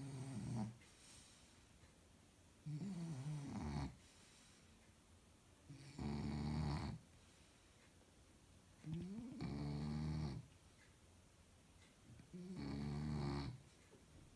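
Shar Pei dog snoring, a pitched snore about every three seconds, each lasting a second or so.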